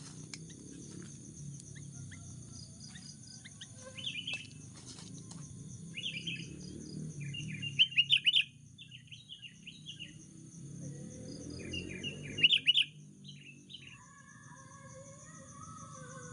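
Sooty-headed bulbuls (kutilang) calling in short bursts of quick chirpy notes, loudest about eight and twelve seconds in, over a steady high-pitched buzz.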